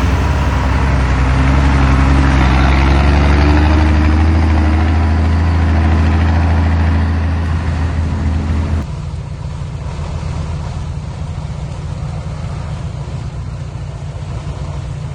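Heavy diesel engine running loud, its pitch rising a little, then cutting suddenly about nine seconds in to a quieter, low steady rumble.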